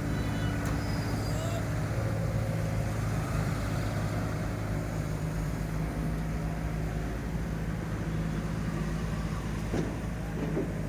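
Diesel engine running steadily at a constant speed, with no revving.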